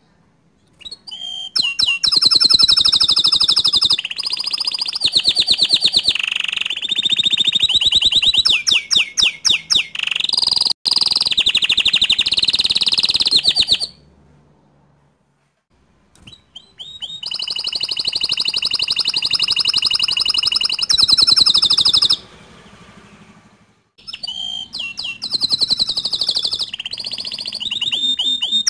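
Domestic canary singing: long phrases of fast rolling trills and rapid repeated notes, high and loud. The song stops twice for about two seconds.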